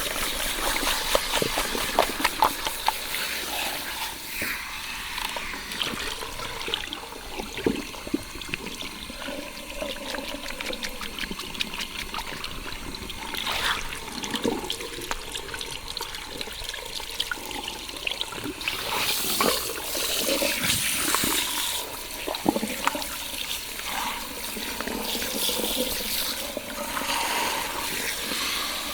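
Running water from a salon shampoo shower head splashing over wet hair during a hair wash, with many small wet clicks over the steady hiss.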